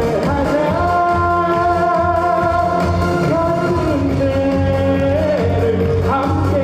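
Trot song with backing music and a steady beat; a singer holds long notes that step from one pitch to another, with a lower held note in the middle.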